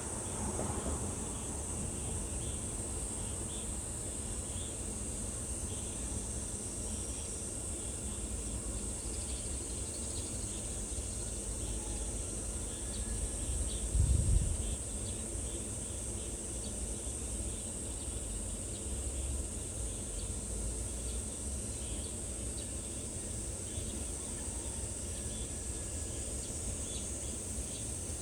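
Steady high-pitched insect chorus over a low rumble, with faint short ticks and one dull thump about halfway through.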